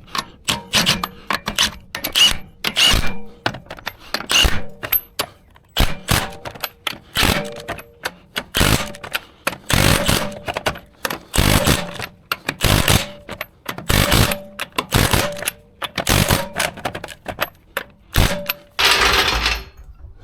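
Irregular metallic clicks and clanks of hand tools being worked, with a short hiss-like burst near the end.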